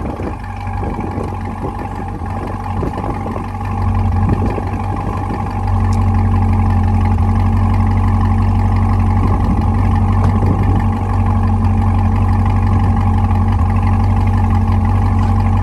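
A 2021 Chevrolet Corvette Stingray's mid-mounted 6.2-litre V8 idling with a deep, steady hum, on a cold start. It grows louder about four to six seconds in, then holds steady.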